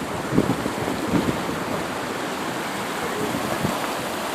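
Steady rush of flowing creek water, an even hiss, with a few soft low thumps in the first second and a half.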